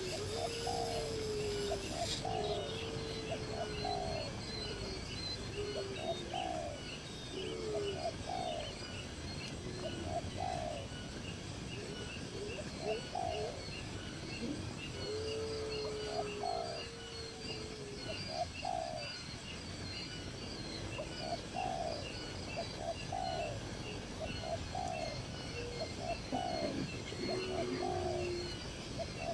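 Doves cooing over and over, several birds' calls overlapping every second or so, with small birds chirping steadily behind them.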